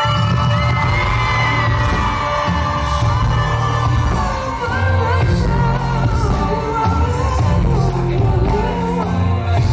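Live pop song played by a full band, with heavy bass coming in at once and singing over it.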